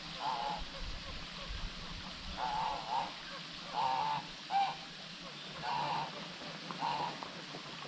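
A bird calling repeatedly: about seven short calls, each under half a second, at uneven intervals.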